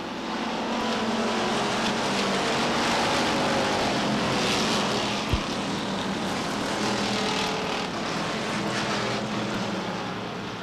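A field of short-track stock cars racing, their V8 engines running hard together. The sound swells about a second in, holds, then eases slightly near the end as the pack goes by.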